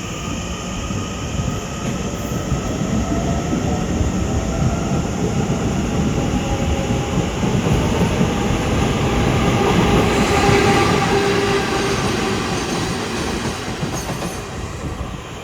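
Two GE E42C electric locomotives passing on the track. The rumble grows to its loudest about ten seconds in, with a faint hum that shifts in pitch as they go by, then fades away.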